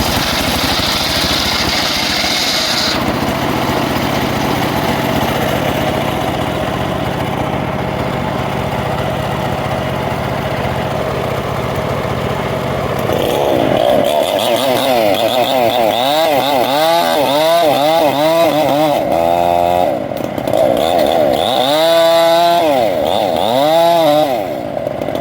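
Engine-powered saw running steadily at first, then from about halfway its engine speed swings up and down over and over, roughly once a second, as it works through the wood.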